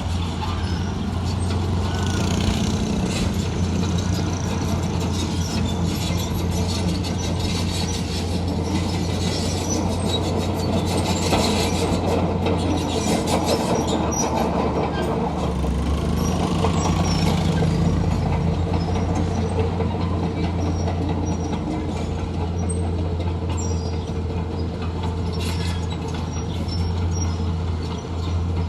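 Heavy diesel construction machinery running steadily: a deep engine drone with a noisy clatter over it that swells a few times.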